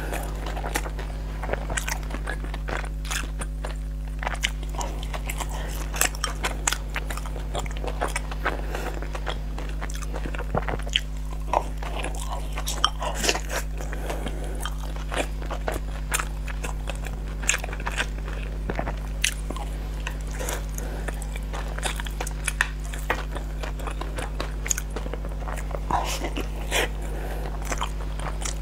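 Close-miked chewing of sticky glutinous rice dumplings (zongzi): irregular wet mouth clicks and smacks, several a second, with a steady low hum underneath.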